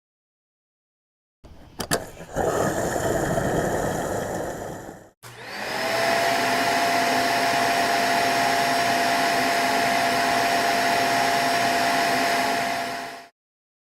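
Small electric motor whirring: it spins up quickly to a steady high whine, runs evenly for several seconds, then cuts off abruptly. Before it, a shorter stretch of noisy mechanical running with a few clicks.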